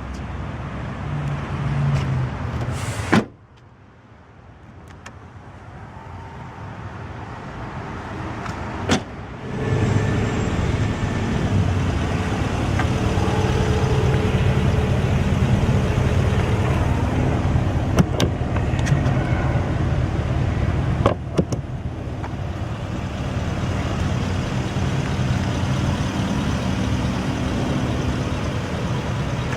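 Tailgate shutting with a sharp thud about three seconds in; after a click near nine seconds, the BMW X5 M's engine idles steadily.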